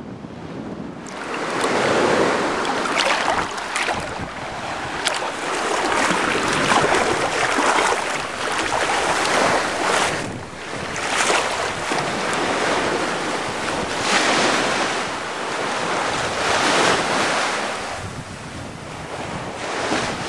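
Sea water washing and splashing, mixed with wind buffeting the microphone, swelling and easing every few seconds.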